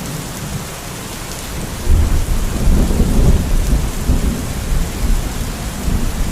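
Steady rain falling, with a low rumble of thunder starting suddenly about two seconds in and rolling on, rising and falling, over the rain.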